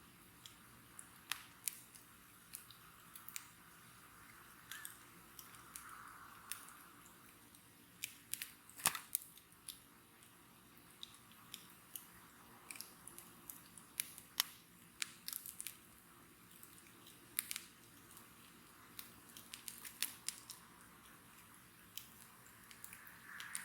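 Wood bonfire crackling: irregular sharp pops and snaps over a faint hiss, with a cluster of louder snaps about nine seconds in.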